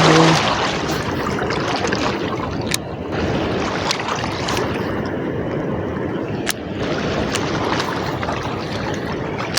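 Floodwater rushing over and crashing into the rocks of a river spillway, a steady loud wash, with wind on the microphone and a few sharp clicks.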